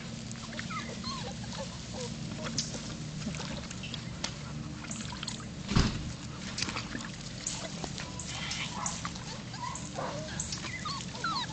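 Labrador retriever puppies giving short, high squeaky whimpers, with light splashing of water in a shallow pool. A loud thump about six seconds in.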